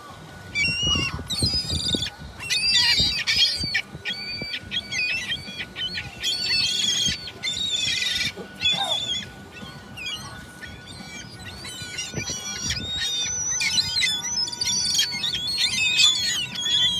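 Several gulls calling at once, cry after cry overlapping, with short lulls between the bursts.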